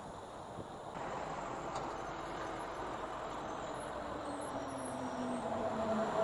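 A car or truck driving past through a street intersection: an engine hum growing louder toward the end, its low tone dropping slightly in pitch.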